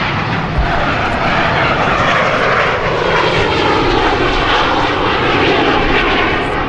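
An airplane engine running loudly close by, its noise sweeping slowly down and back up in tone as the aircraft moves past.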